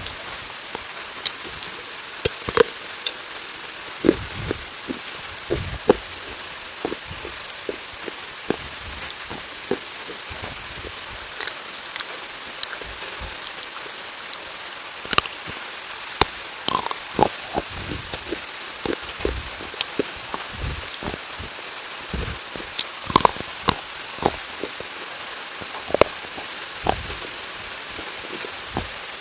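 Rain falling: a steady hiss with many irregular louder drips and taps of drops striking nearby surfaces.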